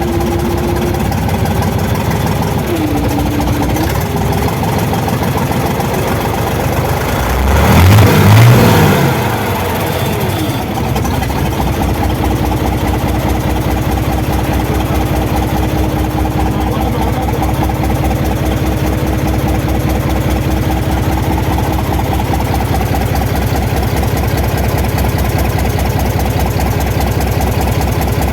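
Isuzu 12PC1 V12 diesel engine running steadily, revved once about eight seconds in, with the pitch rising and falling back over a couple of seconds before it settles to an even idle.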